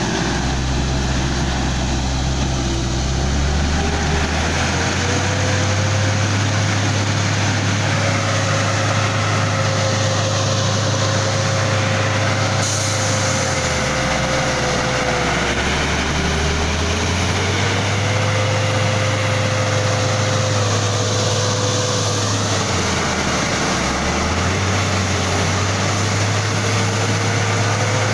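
Truck engine running steadily on the move, with a faint whine that rises and falls in pitch. The low engine note drops away briefly twice, about halfway through and near the end.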